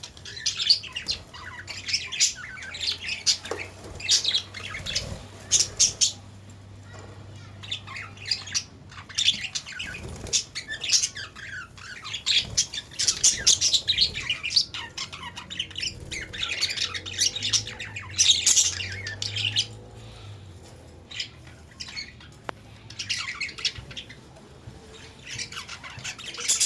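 A flock of caged Australian parrots chattering and squawking, many birds calling over one another in quick clusters with brief lulls between.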